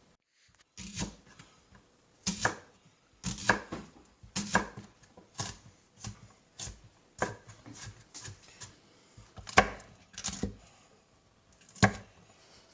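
Knife chopping onions and herbs on a cutting board, in uneven strokes about once or twice a second.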